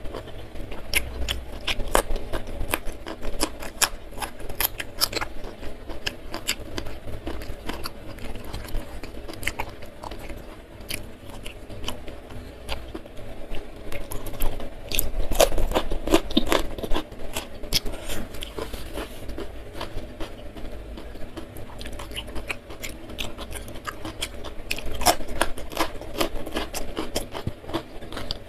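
Close-miked chewing and crunching of fried food such as fried tempe, eaten by hand with sambal, with many short crackling clicks throughout.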